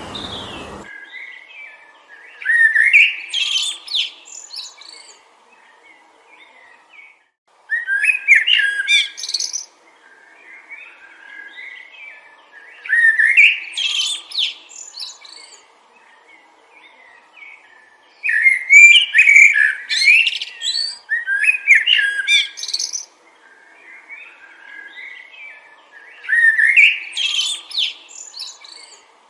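A songbird singing loud, warbled phrases of about one to four seconds, five times, with quieter chirps in between. A rushing wind-like noise cuts off about a second in.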